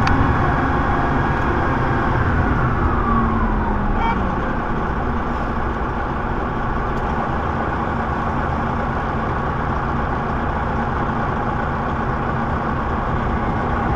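Semi truck's diesel engine and road noise while driving, steady throughout, with a whine that falls in pitch over a couple of seconds near the start.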